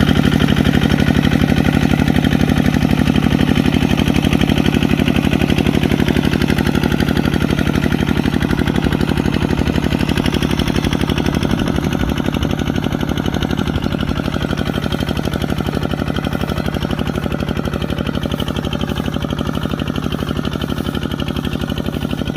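Kubota RT140 single-cylinder diesel engine running steadily with a fast, even knock, growing gradually a little fainter.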